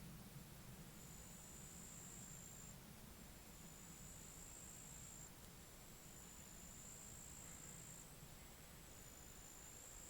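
Faint high-pitched insect trilling, a steady buzz in phrases of one to two seconds with short breaks between them, over a faint low rumble.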